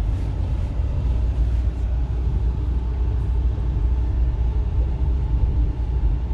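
A manual car's engine and road noise, heard from inside the cabin as a steady low rumble while the car is driven in first gear, revving toward the shift into second.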